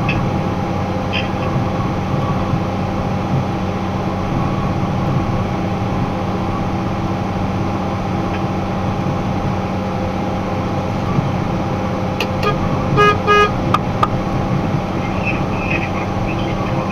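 Steady engine and road drone inside a box truck's cab while driving. About two-thirds of the way through, a vehicle horn gives two short toots.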